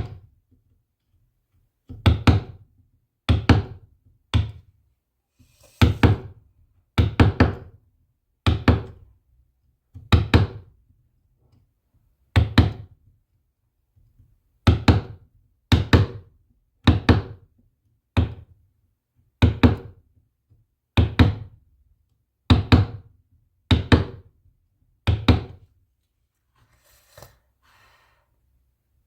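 A series of about twenty hard knocks, one every second or so at an uneven pace, each with a short ring, stopping near the end.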